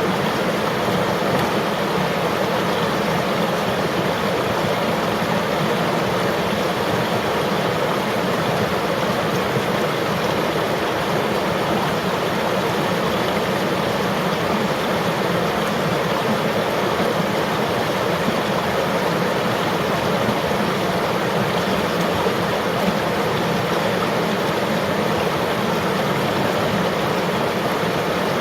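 River water flowing steadily over rocks, an even rushing sound with no change in level.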